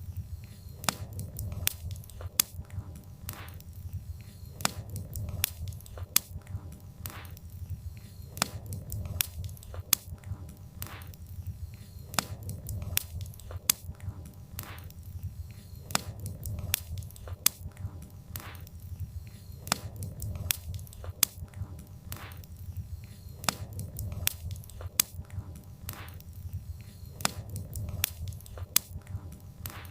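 Wood fire burning, with irregular sharp crackles and pops of the burning logs several times a second over a steady low rumble of the flames.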